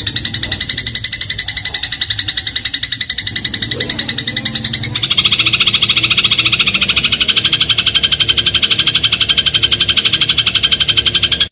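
House sparrow giving a fast, continuous run of chirps, about eight a second. About halfway through, the chirps switch abruptly to a lower pitch.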